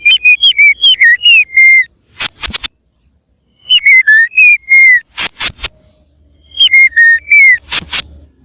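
White-rumped shama (murai batu) singing loud, rich song in three bursts: quick runs of clear whistled notes that bend up and down in pitch, each burst followed by a few short harsh, raspy notes.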